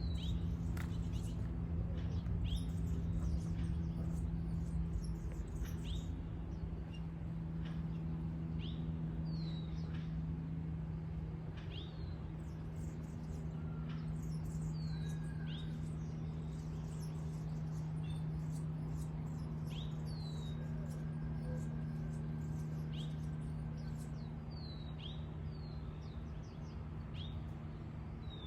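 Small birds chirping: short, high, falling calls scattered every second or few, over a steady low hum.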